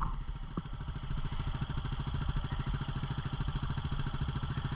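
250cc single-cylinder dual-sport motorcycle engine running at low, steady revs, with an even, rapid pulse.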